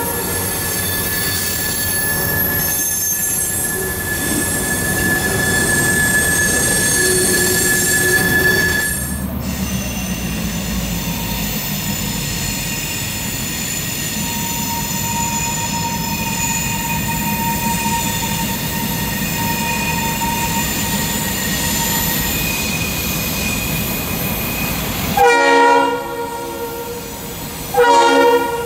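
Freight train cars rolling over a steel bridge, their wheels squealing with steady high tones. Then a diesel freight locomotive approaches with a steady rumble and faint wheel whine, and sounds its multi-chime air horn in two loud blasts near the end.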